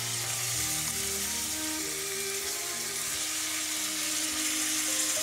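Chopped onion frying in olive oil in a stainless steel pot, a steady sizzle as tomato pieces go in, with background music playing over it.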